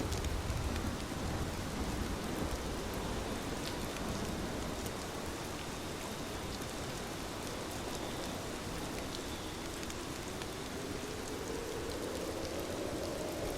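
Steady heavy rain falling, with sharp ticks of individual drops hitting a surface. A low rumble of distant thunder fades away in the first second or so.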